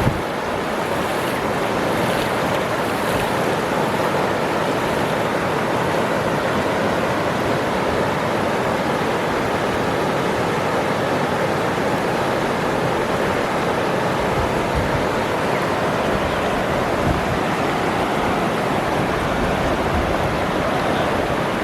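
Waterfall's water falling and splashing as a steady, even rush.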